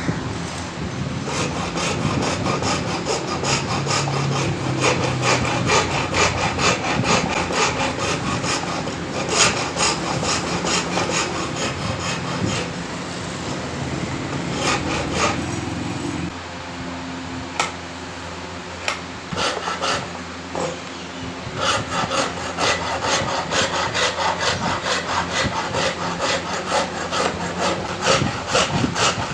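Quick back-and-forth scraping strokes of a hand tool, filing or sawing at a knife workpiece, in runs with short pauses. A steady low hum underneath stops about halfway.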